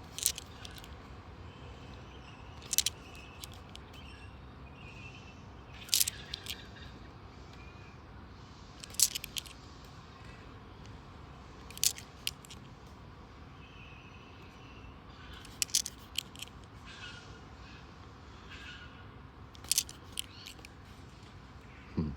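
Australian $2 coins clinking sharply against one another, a click or a short double clink about every three seconds as they are handled one at a time from an opened roll. Faint bird calls sound underneath.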